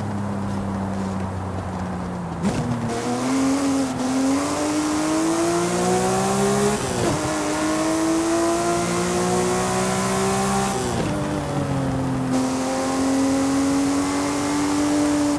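Porsche Speedster's flat-six engine pulling under acceleration. It picks up about two and a half seconds in, then its pitch climbs and drops sharply at two upshifts, about seven and eleven seconds in.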